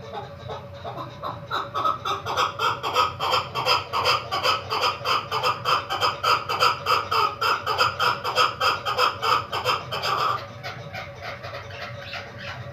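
Female chukar partridge calling: a rapid run of repeated clucking chuck notes, about four a second, growing louder about two seconds in and breaking off sharply a little after ten seconds, with fainter notes going on after.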